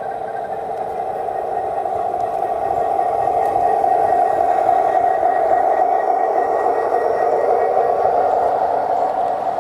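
G-scale model train rolling past on the garden track: a steady rolling hum of motor, gears and wheels on rail that swells to its loudest about midway, then eases off.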